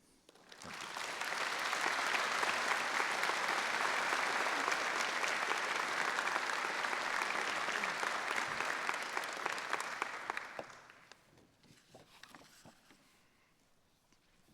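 Audience applauding after a speech. The clapping builds quickly about half a second in, holds steady, then fades away at around ten to eleven seconds, leaving only a few faint stray noises.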